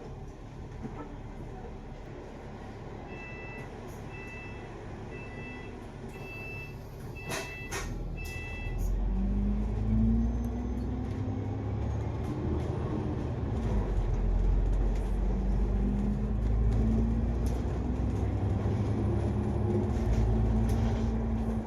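Inside a double-decker bus: a run of short electronic beeps for about five seconds, then a knock, then the bus's engine and drivetrain pulling away, louder, with a whine that rises in pitch twice as it speeds up.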